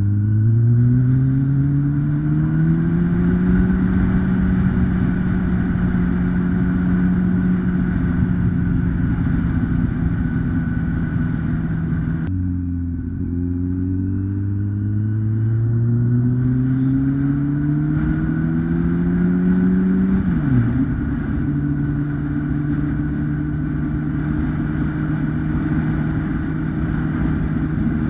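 2008 Kawasaki ZX-10R Ninja's 998 cc inline-four engine under way, its note rising as it accelerates and then holding steady. About twelve seconds in, the revs drop suddenly and climb again. Near twenty seconds they fall sharply, as at a gear change, and then the engine settles into a steady cruise.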